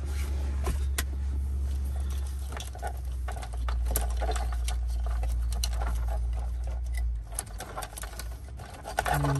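Plastic wiring-harness connectors and cables clicking and rattling as they are handled and pushed into a car dashboard, over a steady low hum that stops about seven seconds in.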